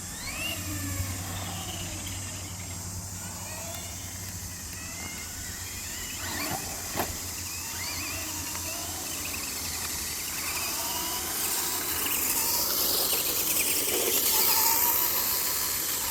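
Electric motors of racing radio-controlled trucks, one a brushless Traxxas Bigfoot, whining and rising and falling in pitch, growing louder in the second half.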